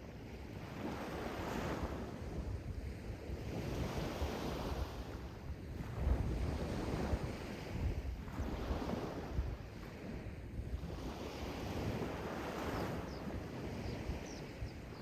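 Sea waves washing in and drawing back, the noise swelling and easing every couple of seconds, with wind buffeting the microphone as a low rumble.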